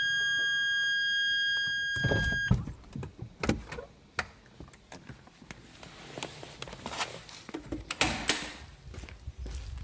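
A steady electronic tone that cuts off about two and a half seconds in, followed by scattered clicks and knocks.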